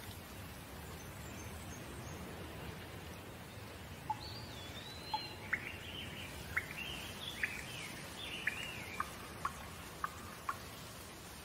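Steady rain, with a bird chirping over it from about four seconds in: about a dozen short, sharp, mostly falling notes.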